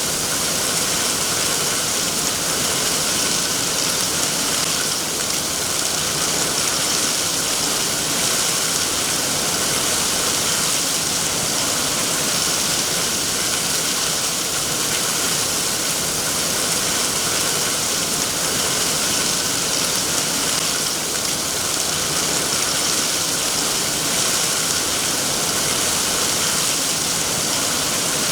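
Steady rain falling, an even hiss of rain without change or separate events.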